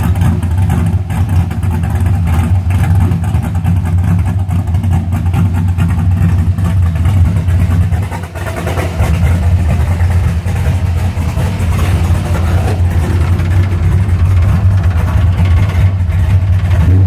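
Chevrolet big-block 454 V8, bored to 475 with a custom Lunati cam and running on E85, idling steadily on a cold start with a fast, even exhaust pulse.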